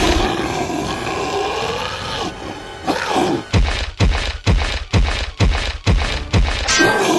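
Creature growling sound effect, drawn out and bending in pitch, followed from about halfway by a run of heavy thuds at about two a second.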